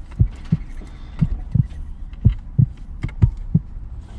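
Heartbeat sound effect: deep double thumps about once a second, building suspense.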